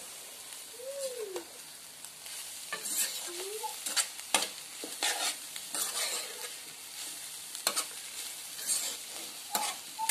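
Scrambled egg and onions frying in a non-stick pan with a steady sizzle, while a metal spoon stirs and scrapes against the pan in short, irregular strokes.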